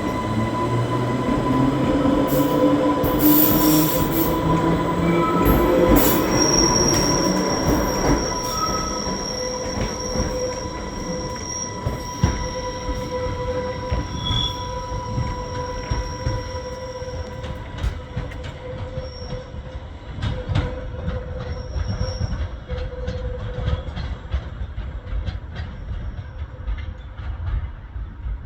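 Island Line Class 484 electric train pulling away, its motor whine rising in pitch over the first few seconds as it accelerates, with steady high-pitched wheel squeal. The sound grows fainter after about six seconds, with scattered clicks from the wheels on the track.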